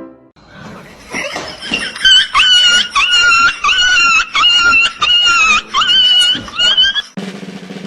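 An animal's high-pitched calls, repeated about twice a second for some six seconds, each held briefly and dipping at its end. Near the end they stop and a steady low buzzing sound takes over.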